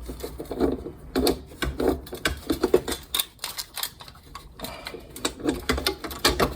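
Irregular clicks and knocks, several a second, from the parts of a kerosene heater being handled as its wick-adjuster gear is fitted back into place.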